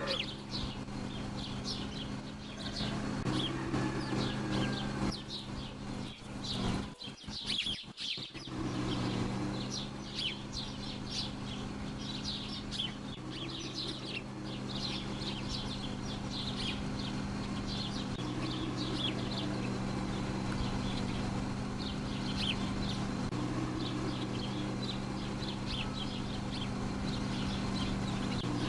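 Small birds chirping in quick, repeated short calls over a steady low hum, with a brief break about seven seconds in.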